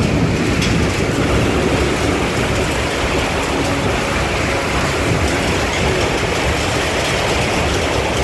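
Storm of strong wind and heavy rain, a loud steady rushing with deep rumbling from wind buffeting the microphone.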